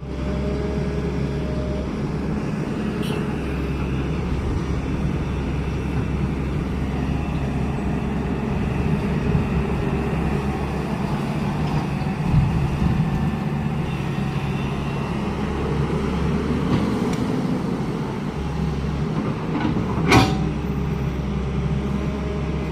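Heavy construction machine's diesel engine running steadily with a low hum, with a sharp metallic knock about twenty seconds in.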